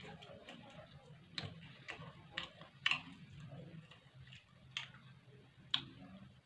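Close-up eating sounds: a person chewing, with about six sharp, crisp crunches or clicks at irregular intervals.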